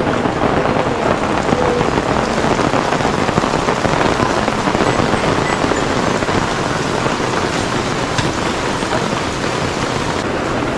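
Steady rain falling on a camping tarp overhead and on the surrounding trees.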